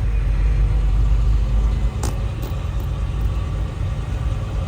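Low, steady rumble of a truck's engine and road noise heard inside the cab while driving in slow traffic, with a brief click about two seconds in.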